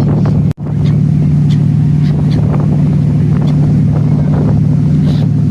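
Ferry's engine running with a steady low drone. The sound cuts out for an instant about half a second in.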